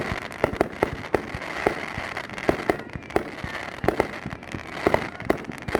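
Fireworks going off in rapid succession, about three sharp bangs a second at uneven spacing, over a continuous haze of smaller pops.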